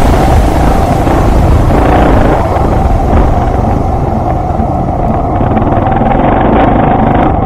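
Off-road motorcycle engine running steadily under way, with a continuous rumbling drone.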